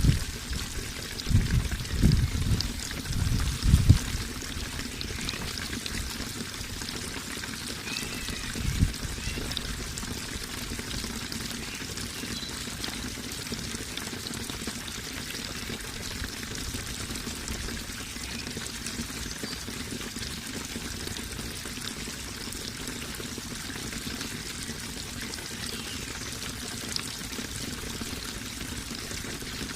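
Running water pouring and trickling steadily, with a few low thumps in the first four seconds and another about nine seconds in.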